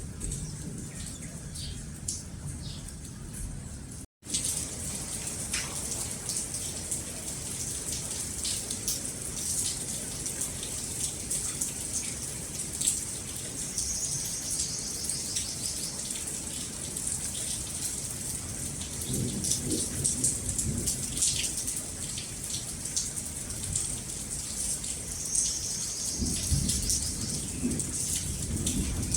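Steady rain falling, with many fine drop ticks over a constant hiss, and distant thunder rumbling about two-thirds of the way in and again near the end. About four seconds in the sound cuts out for a moment, where one recording is spliced onto the next.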